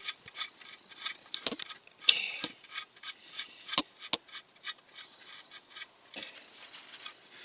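Irregular clicks and taps of hand tools and parts being handled during a tractor oil change, with one louder clink and brief ringing about two seconds in.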